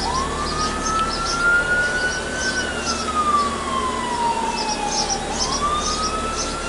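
Ambulance siren wailing: the tone sweeps up quickly at the start and again about five seconds in, each time sliding slowly back down. Short high chirps sound above it throughout.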